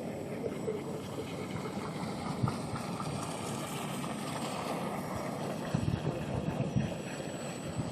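Pro Boat Stiletto radio-controlled electric tunnel-hull boat, driven by a brushless motor, running out on the water, heard as a steady noisy rush with wind buffeting the microphone. The wind rumble grows gustier about six seconds in.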